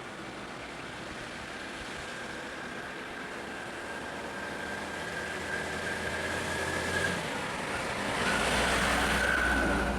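Road vehicle engine running with a faint steady whine, growing louder toward the end as a deeper rumble comes in, as if a vehicle draws closer.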